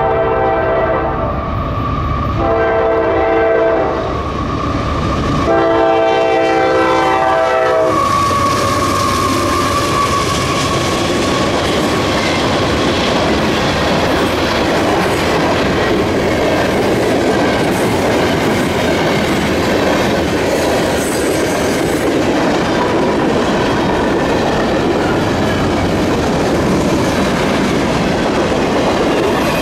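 CSX freight locomotive's air horn sounds three blasts as it approaches: one ends about a second in, a shorter one follows, then a longer one. The train then rolls past, the wheels of its freight cars clattering steadily over the rail joints.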